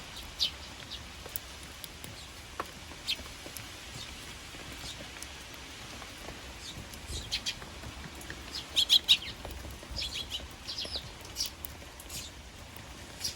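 Eurasian tree sparrows chirping in short, scattered calls, with a quick run of louder chirps about nine seconds in, over a steady hiss of rain.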